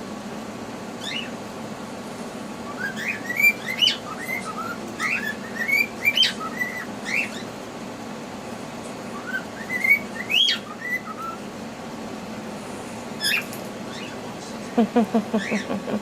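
Cockatiels whistling and chirping: two runs of short rising whistles, a single sharp chirp later, and a quick burst of chatter near the end, over a steady low hum.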